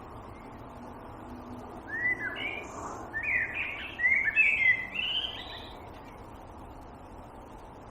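A songbird singing one phrase of quick, varied whistled notes, starting about two seconds in and lasting around four seconds, over a steady background hiss.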